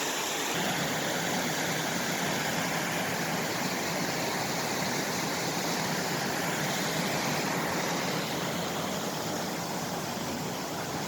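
Mountain river rushing: a steady, even noise of flowing water.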